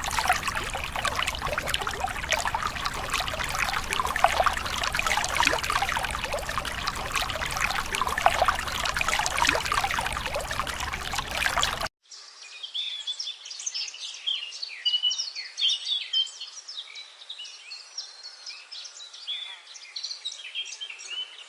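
A loud, dense crackling rush for about twelve seconds, then, after a sudden cut, small birds chirping with quick, high notes.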